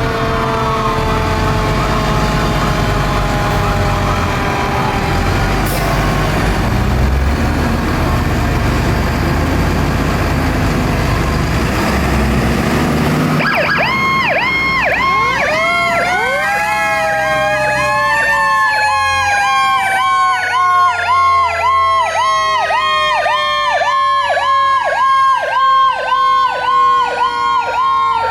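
Fire truck sirens over truck engine rumble. In the first half a mechanical siren's wail slowly falls in pitch. About halfway an electronic siren starts a rapid yelp of about two cycles a second, while a mechanical siren winds up and then slowly coasts down.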